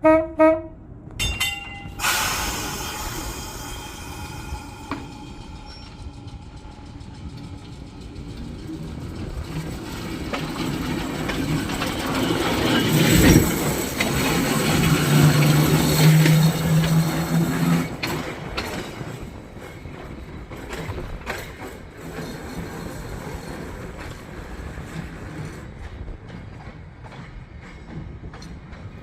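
Electric trolley car running on rails, with a swelling rumble and clatter that peaks about halfway through, carrying a low steady hum for a few seconds, then settles back to a quieter steady run.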